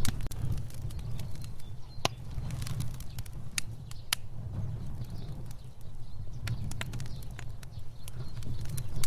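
A fire burning: irregular sharp crackles and pops over a steady low rumble of flame.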